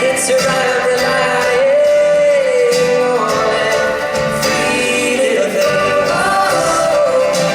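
Live band music with a sung melody held on long, gliding notes and no clear words.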